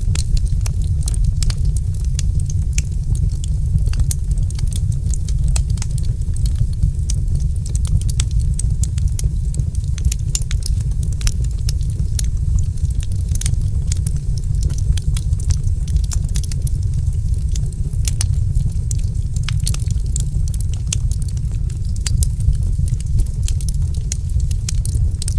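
Wood fire crackling in a fireplace: a dense, irregular stream of small sharp pops and snaps over a steady low rumble.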